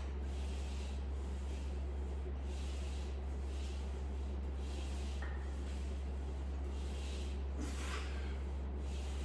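A steady low hum, with faint breathing and body-movement sounds from a man doing an exercise set.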